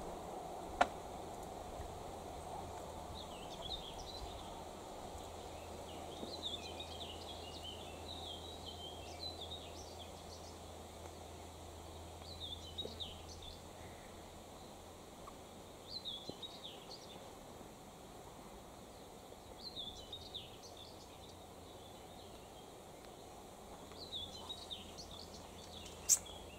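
Songbirds singing in short chirping phrases that recur every few seconds, over faint steady background hum. A sharp click about a second in and another near the end.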